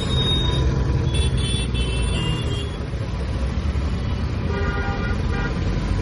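Royal Enfield Classic 350's single-cylinder engine running under way in traffic, a steady low rumble, with vehicle horns honking twice: a higher series of short toots about a second in, then a lower honk near the five-second mark.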